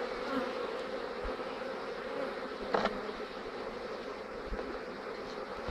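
Honeybees buzzing in a steady hum around an open hive. A short, sharper noise sounds about halfway through.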